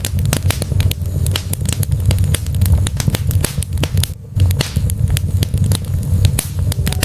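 Wood logs burning in a fireplace: dense, irregular crackles and pops over a steady low rumble of the flames, with a brief lull about four seconds in.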